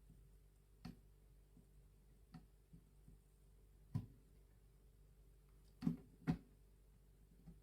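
Faint, sparse clicks and taps, about five in all, with the two loudest in quick succession near the end, over a faint steady hum.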